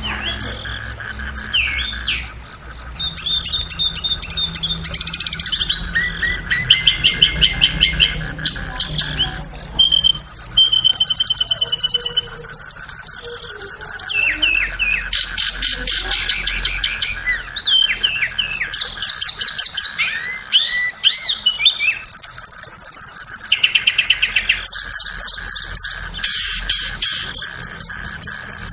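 Tledekan (blue flycatcher) song: fast, varied, high-pitched trills and chattering phrases following one another almost without pause, over a steady faint whine.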